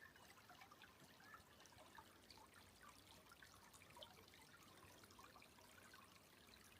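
Near silence: faint forest ambience with a light trickle of water and scattered tiny ticks.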